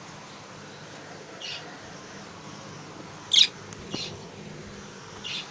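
Small pet parrots giving four short, high chirps, the loudest about three and a half seconds in.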